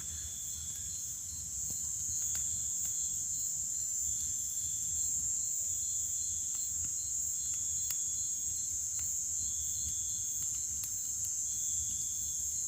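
Crickets and other insects calling: a steady high trill with another insect's shorter pulsed calls coming in spells about once a second. A few faint crackles from the burning bonfire come through now and then.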